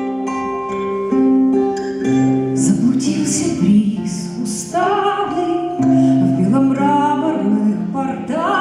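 Acoustic guitar playing a plucked accompaniment, joined about two to three seconds in by a singing voice.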